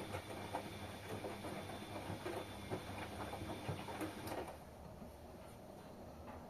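Washing machine drum turning with laundry tumbling inside: irregular soft knocks and patter over a steady hum. About four and a half seconds in the drum stops, leaving only a quieter hum.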